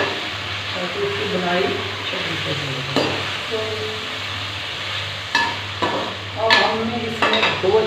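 Chicken pieces frying in hot oil in a karahi, a steady sizzle as they are browned, while a spatula stirs them. In the second half come several sharp clicks and scrapes of the spatula against the pan.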